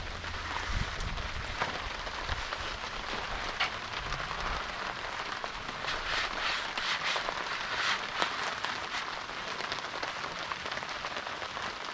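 Steady rain falling, with a scatter of small clicks and crackles between about six and nine seconds in.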